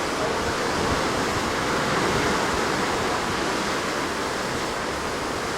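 Steady rushing of sea water churning past the side of a moving cruise ship.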